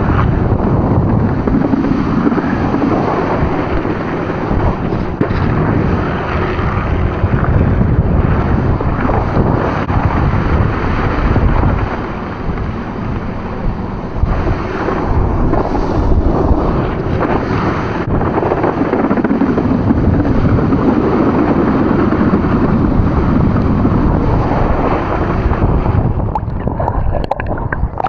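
Wind buffeting the microphone over the rush of water from a motorboat running at speed. Near the end the sound breaks up into splashing and gurgling water.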